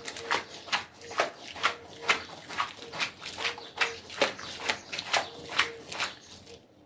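Rhythmic strokes worked on a carpet, about two a second and evenly paced, each one short and sharp. Behind them runs a faint broken low tone.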